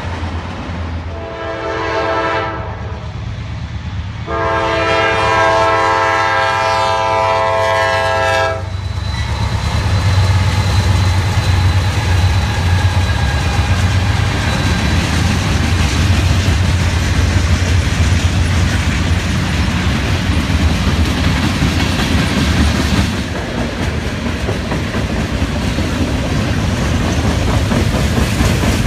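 Diesel freight train's locomotive air horn sounding a short blast and then a long one, followed by the steady rumble of Norfolk Southern diesel locomotives and freight cars rolling past, wheels clacking over the rail joints.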